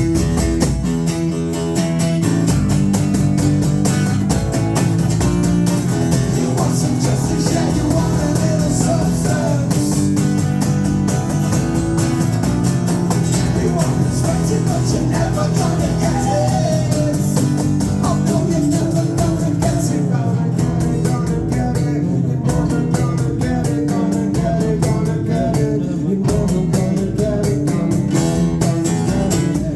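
Live rock band playing an instrumental passage: guitars over bass and drums, with a wavering lead guitar line in the middle of the passage.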